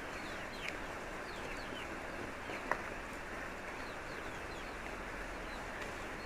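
Small birds chirping again and again in short calls over a steady background hiss, with one sharper, louder note about two and a half seconds in.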